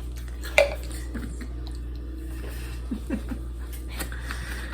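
Kitchen items being handled while a baby bottle is prepared: one sharp knock about half a second in, then a few light clicks and clatters and a click near the end, over a steady low hum.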